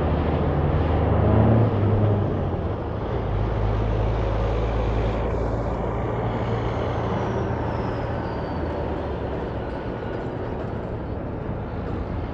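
Road vehicle running, a steady low engine drone with tyre and road noise. It is loudest about a second and a half in and then slowly fades.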